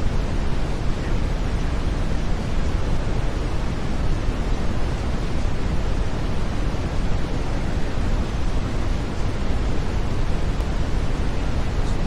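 Steady brown noise: an even, deep rushing hiss, strongest in the bass, with no change in level.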